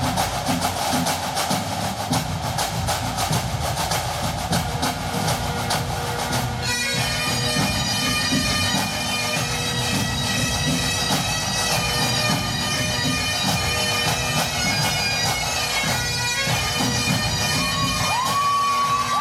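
Pipe band playing: bagpipes with their steady drones and chanter melody, backed by snare drums rolling densely for the first six or so seconds, after which the pipes carry on with lighter drumming.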